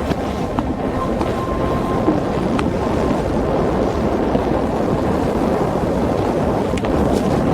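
Steady rumble of a subway train in motion, with a few faint clicks over it.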